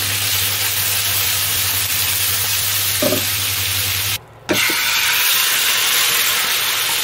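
Chicken pieces with carrot sizzling in a hot wok as they are stir-fried with a wooden spatula, a dense steady hiss over a low hum. The sound drops out briefly about four seconds in, then the sizzling and stirring resume.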